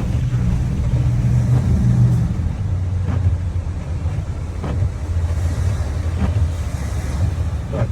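Steady low engine and road rumble heard from inside a vehicle while driving at speed, with a couple of faint clicks.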